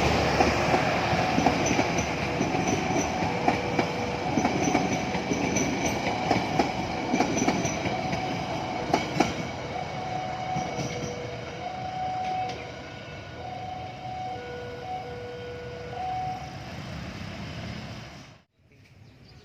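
Train rolling past on the rails, its wheels clicking over rail joints, gradually fading as it moves away, with short intermittent high tones over the rumble. It cuts off abruptly near the end.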